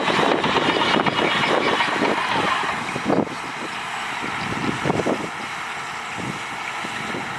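Heavy diesel earthmoving machinery running and working. The sound is loud and dense, then eases a little about three seconds in.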